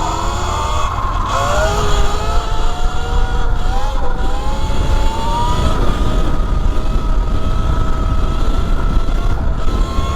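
E Ride Pro SS electric dirt bike riding, its motor whining and rising in pitch over the first couple of seconds as it speeds up, then holding steady. Heavy wind rumble on the helmet or body camera runs underneath.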